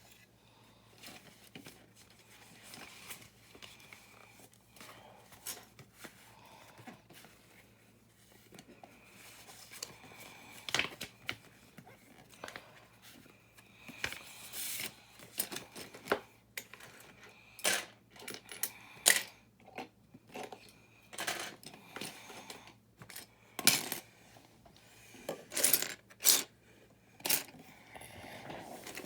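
Plastic building bricks clicking and rattling as small pieces are handled and pressed together, in sharp irregular clicks that grow louder and more frequent from about ten seconds in.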